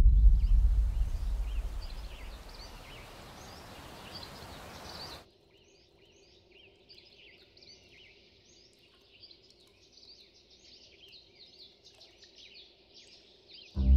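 Birds chirping, many short repeated chirps. A deep low rumble under them fades away over the first five seconds and cuts off suddenly, leaving only the faint chirping.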